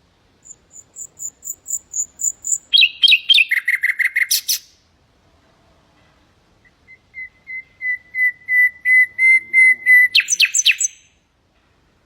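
Common nightingale singing two song phrases. Each opens with a run of repeated short notes that grow steadily louder, high-pitched in the first phrase and lower in the second, and ends in a quick rattling flourish.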